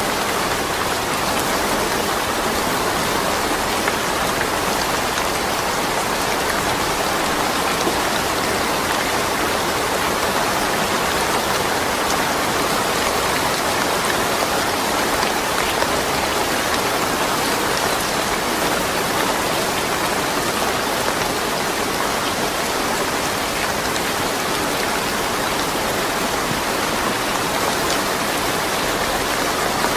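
Steady rain falling, an even hiss of drops that holds unchanged throughout, with no thunder.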